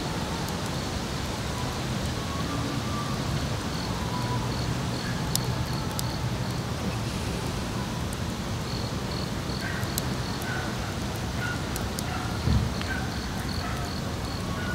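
An insect chirping in runs of short, evenly spaced high pulses over a steady low rumble and hiss. Scattered sharp clicks are heard, and a dull thump comes about twelve and a half seconds in.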